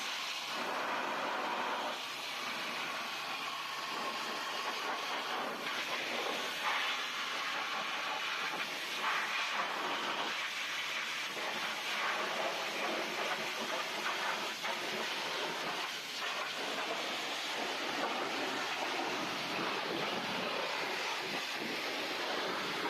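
Steady hiss of a high-pressure water spray on a car body, rising and falling a little in level.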